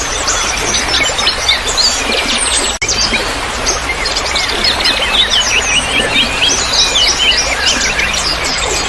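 A dense chorus of many small birds chirping and trilling over a steady hiss of trickling water, with a momentary dropout of all sound about a third of the way in.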